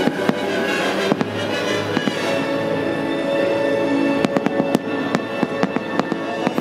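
Aerial firework shells bursting with bangs and a dense run of sharp crackling pops from about four seconds in, over show music with held notes.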